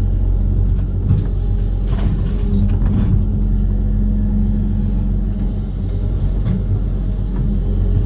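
Amphibious excavator's diesel engine running steadily under load, a low, even drone with a few faint knocks.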